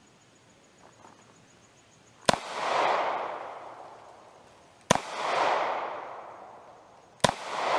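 Three 9mm shots from a Taurus G2C pistol, spaced about two and a half seconds apart, each followed by a long rolling echo that swells and fades over a couple of seconds.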